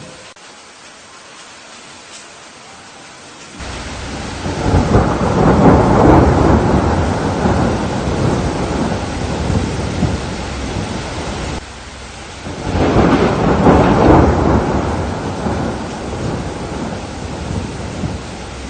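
Steady rain with two long rolls of thunder. The first comes in suddenly about four seconds in, swells and dies away. The second builds about twelve seconds in.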